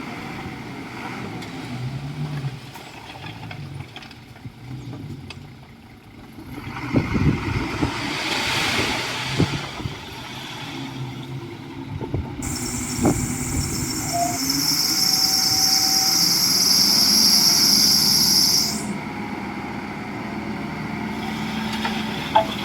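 Komatsu D41E bulldozer's diesel engine running under load as it works. There is a rough crashing and scraping stretch with sharp knocks, then a loud, steady high-pitched shrill sound that starts suddenly about halfway through and cuts off a few seconds before the end.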